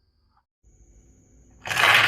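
Near silence, then about one and a half seconds in, a sudden loud, continuous rolling rattle starts: marbles running down a wooden Haba marble-run slope.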